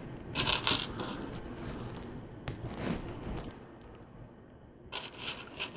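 Small plastic LEGO pieces being handled and pressed together: short clicks and rattling in a few separate bursts, with a sharp tick in the middle.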